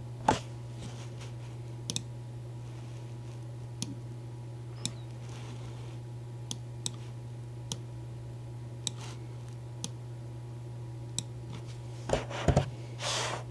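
A steady low hum with scattered sharp clicks, roughly one a second, and a few louder rustling knocks near the end.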